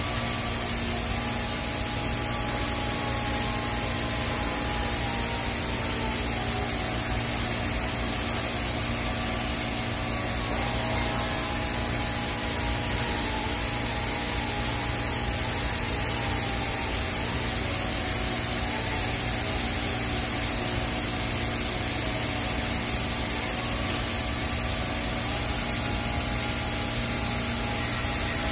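TIG welding arc on a stainless steel pipe root pass, a steady hiss with a low electrical hum that holds unbroken throughout.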